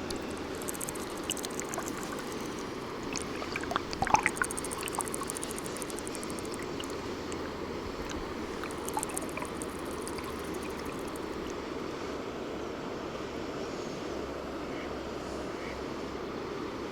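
Water running steadily, with runs of fast light clicking and a sharp knock about four seconds in.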